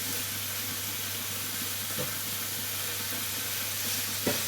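Pork liver pieces sizzling steadily in a hot frying pan, searing to form a crust on the outside. There are two light knocks, about two seconds in and near the end, over a steady low hum.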